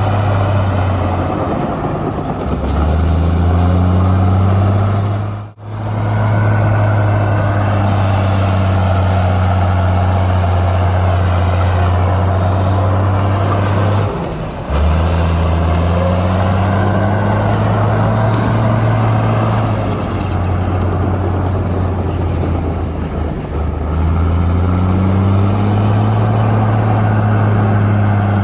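Heavy diesel engine of earthmoving machinery running hard. Its note drops and climbs back up three times: a couple of seconds in, about halfway through, and a few seconds before the end. It cuts out for an instant about five seconds in.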